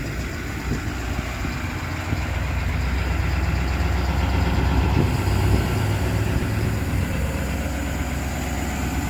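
Ford F-550's 6.7 L Power Stroke V8 diesel idling steadily.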